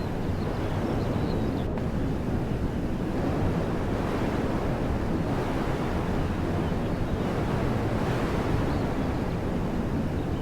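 Wind blowing steadily through woodland trees, a continuous rushing with a deep rumble of wind buffeting the microphone. A few faint bird chirps sound at the start and near the end.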